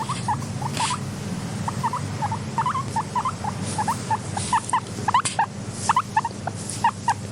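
Guinea pig making a quick, irregular run of short squeaks, a few a second, over a steady low rumble.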